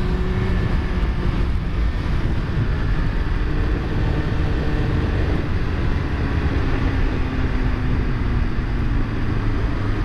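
Yamaha FZ1 inline-four motorcycle engine running steadily while riding, under a dense rush of wind and road noise.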